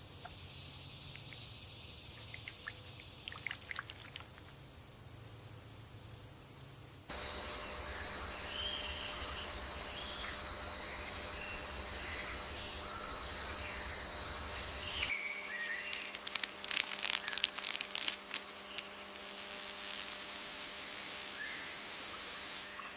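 Rainforest ambience with scattered bird chirps over a steady hiss. The background changes abruptly twice: steady high-pitched buzzing tones come in about a third of the way through, and a stretch of dense rapid clicking follows past the middle.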